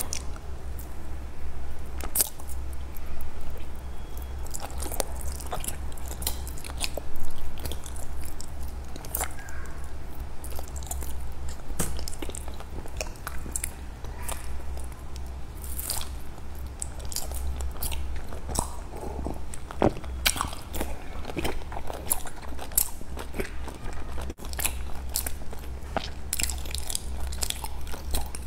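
Close-up chewing of a soft jelly-like sweet: a person's mouth sounds with frequent sharp smacks and clicks, spread irregularly.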